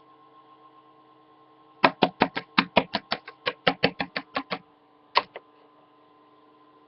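A small plastic Littlest Pet Shop toy figure tapped quickly on a hard surface to mimic footsteps: a run of sharp clicks at about six a second for under three seconds, then one more single tap.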